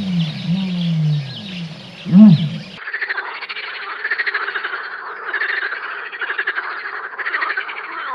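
Animal calls: deep repeated calls that rise and fall in pitch, then a sudden switch about three seconds in to a dense chorus of many rapid pulsing calls.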